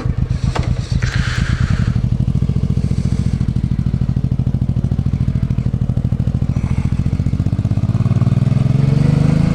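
Motorcycle engine running with a steady low throb, rising in pitch and getting louder near the end as it revs up. Two short clicks sound in the first second.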